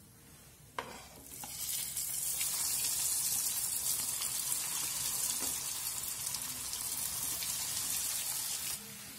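Breadcrumb-coated chicken bread rolls sizzling as they are dropped into hot oil: a steady high hiss that builds up over about a second and cuts off sharply near the end. A short click comes just before the sizzle starts.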